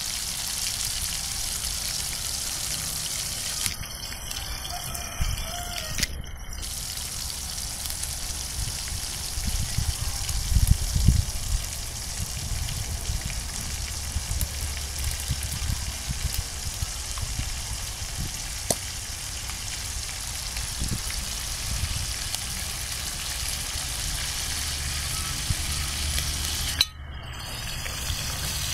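Pork pieces frying in oil in an aluminium wok on a portable gas stove: a steady sizzle that drops out briefly twice, with bursts of low rumble underneath, loudest about ten seconds in.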